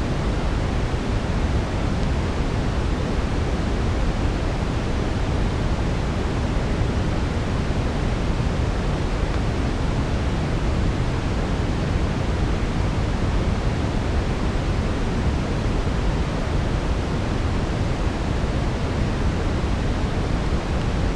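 Steady brown noise: an even, unchanging hiss weighted heavily toward the low end, like a deep rumble.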